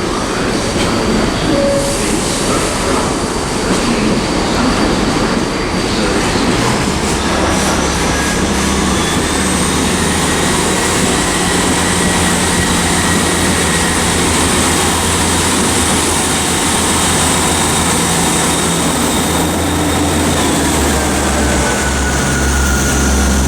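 Freight train wagons rolling slowly through a station on steel rails, with thin high wheel squeals over the steady running noise. A low, steady diesel engine note joins about seven seconds in.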